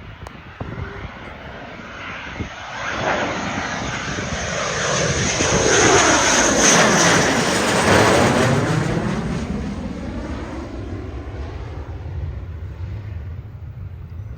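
F-35 Lightning II fighter jet flying past, its single turbofan engine roaring as it approaches, loudest about six to eight seconds in, then fading away as it passes.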